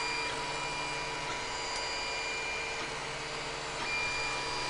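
Creality CR-10 3D printer running a print, its stepper motors giving steady whining tones that change and drop out every second or so as the moves change, over a steady hiss.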